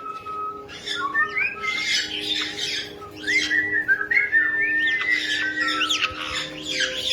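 Pet parrot calling: a run of harsh squawks with short whistled, gliding notes mixed in.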